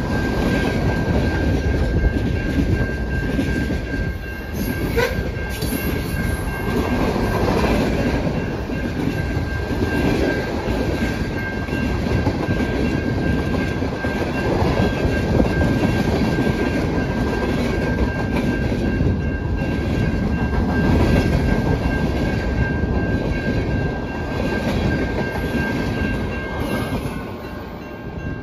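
A train rolling past on the rails, its wheels clattering steadily, with a steady high ringing tone over the rumble. Both the tone and the noise fall away near the end.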